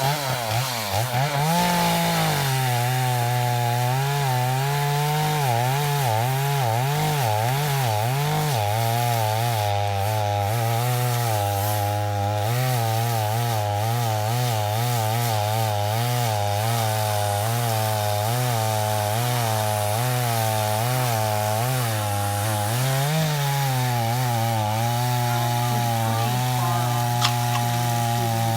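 A chainsaw engine running at high speed while cutting wood. Its pitch wavers up and down through the first several seconds and once more a little after twenty seconds, and otherwise holds steady.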